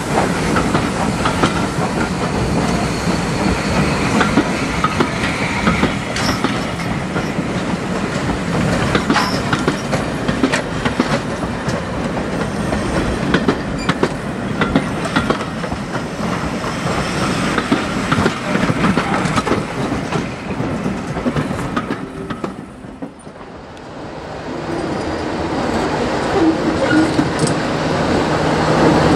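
Passenger coaches rolling past at low speed, their wheels clicking over the rail joints. After a break about 23 s in, a British Rail Class 33 diesel locomotive's engine comes in, growing louder as it approaches.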